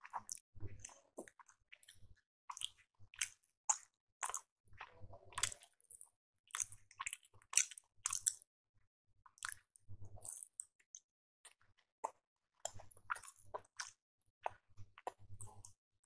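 Close-miked chewing and biting of appe (paniyaram, fried rice-batter dumplings), with short mouth clicks and smacks at an uneven pace and brief pauses between mouthfuls.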